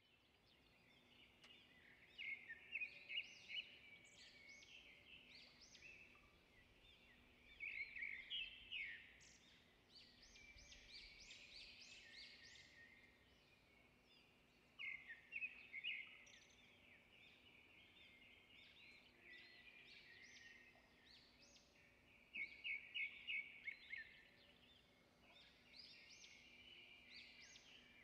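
Faint high-pitched bird chirps with bursts of rapid trills every several seconds, over a faint steady hum.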